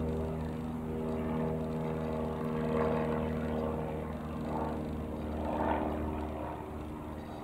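Piper PA-28-180 Cherokee's single four-cylinder piston engine and propeller droning steadily as the light aircraft flies past, swelling slightly a couple of times.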